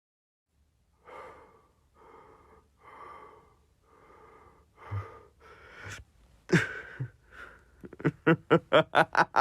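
A person's voice in heavy, strained breathing: soft breaths about a second apart, then a few sharp gasps, breaking into quick voiced panting breaths about four a second near the end.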